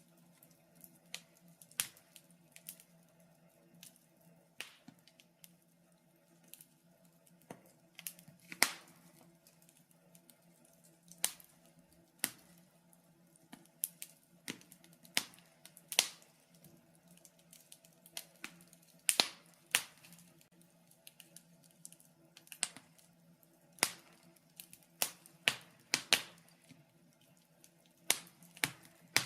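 Wood fire crackling in a fireplace: irregular sharp pops and snaps, a handful of them loud, scattered a second or two apart over a faint steady hum.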